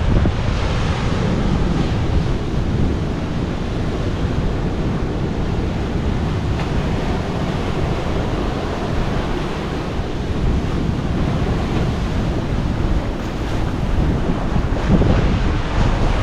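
Sea surf washing onto a rocky shore, with wind buffeting the microphone in a steady, low rumble.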